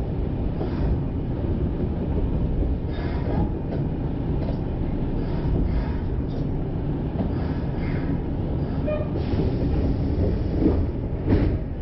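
Kyoto subway train running along the Karasuma Line, heard from inside the car: a steady low rumble of wheels on rail, with a few short knocks.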